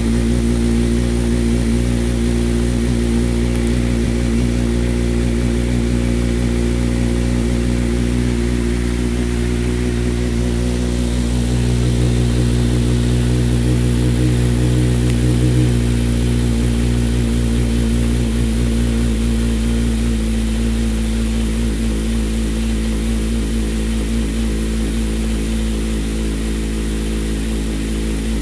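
Motorcycle engine running through aftermarket carbon fibre exhausts, a steady low exhaust note, briefly raised in revs a little before the middle and then settling back.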